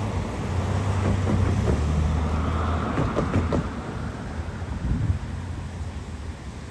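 GO Transit commuter train passing: a steady low diesel rumble with rapid clicks and knocks of wheels over the rails, easing off somewhat near the end.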